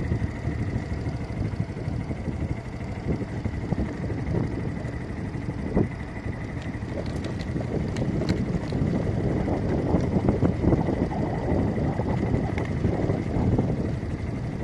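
Motorcycle running while being ridden, with wind buffeting the microphone: a rough, uneven low rumble and a faint steady high whine.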